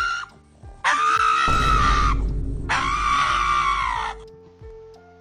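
Pug screaming in protest at having its nails trimmed: the tail of one cry at the start, then two long high-pitched screams, over background music with a steady beat.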